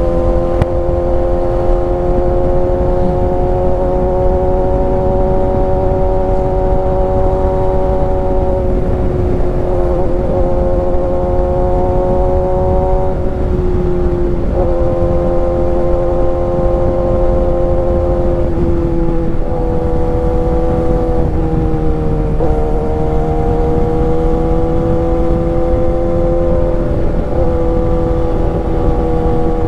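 Kawasaki ZX-6R inline-four sport bike engine running at steady high revs while riding. The engine note holds nearly level, with a few brief dips that recover, under a constant low rumble of wind and road noise.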